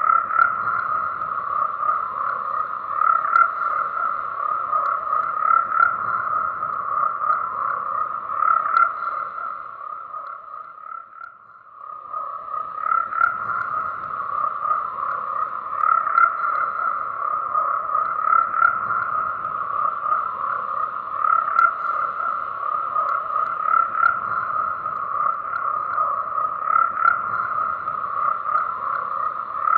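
A chorus of frogs croaking in a dense, continuous mass of calls. The chorus drops away almost to nothing about ten seconds in, then swells back within a couple of seconds.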